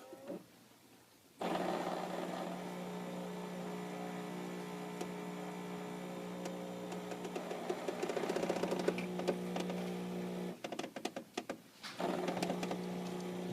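Miele coffee machine starting an order of two espressos: its motor starts with a steady hum about a second and a half in, stops about ten seconds in amid a rattle of quick clicks, then starts again about a second later.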